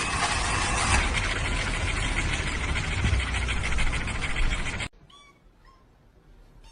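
A loud, steady rushing noise that cuts off suddenly about five seconds in, followed by a cat meowing faintly.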